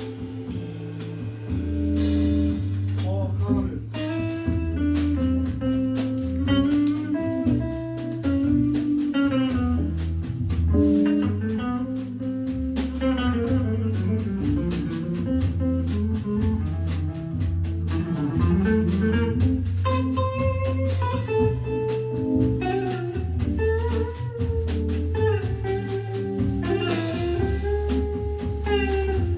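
Jazz organ trio playing live: electric guitar lines over Hammond B3 organ bass notes, with a drum kit keeping time.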